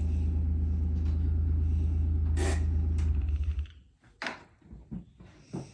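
Vehicle engine idling with a steady low hum, then switched off about three and a half seconds in, followed by a few faint clicks and knocks.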